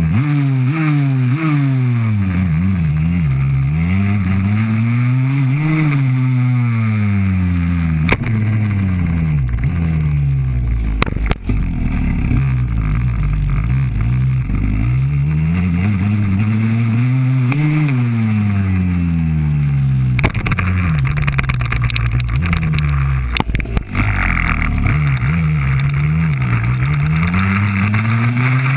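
Freestyle motocross bike engine revving up and falling back again and again as the throttle is worked, heard up close from the bike. A few sharp knocks break in along the way.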